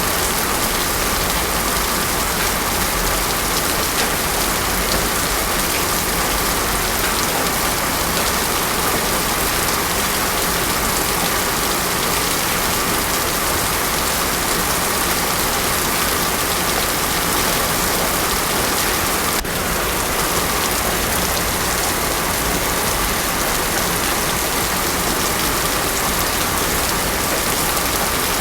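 Heavy rain falling steadily on a road surface, a dense even hiss with no thunder.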